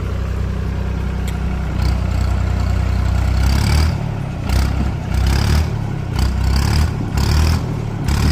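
Mahindra 265 tractor's three-cylinder diesel engine running hard, a steady low rumble that surges up and down several times in the second half as the throttle is worked.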